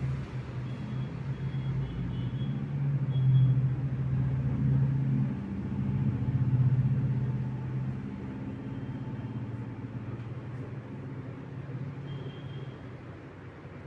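Low, steady engine hum of a motor vehicle that swells twice and fades away after about eight seconds.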